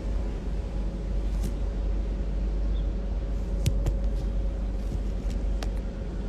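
Room tone in a pause between prayer recitations: a steady low rumble with a faint steady hum, and a few small clicks about halfway through and near the end.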